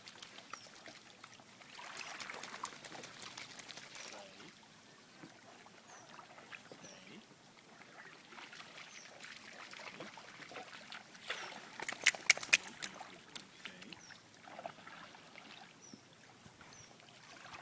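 Faint water sounds of a canoe moving through shallow river water, with a quick cluster of sharp knocks near the middle.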